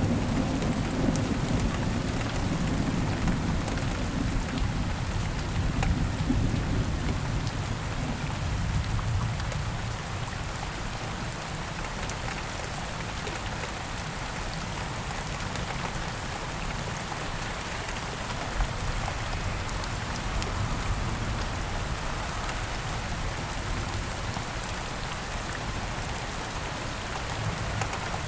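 Thunderstorm: steady rain falling, with a low rumble of thunder in the first several seconds that fades away by about a third of the way in, leaving the rain alone.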